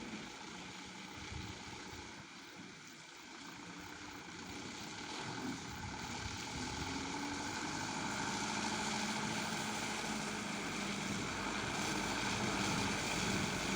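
Mitsubishi Canter dump truck's diesel engine running, growing steadily louder over the first half and then holding at a constant level.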